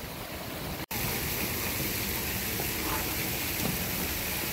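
Steady rush of falling water from a mini-golf course's waterfall or water feature, broken by a sudden cut about a second in.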